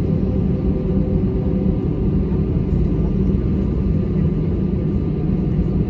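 Airbus A320-200 running with its engines on: a steady low rumble with a constant hum, no change in pitch.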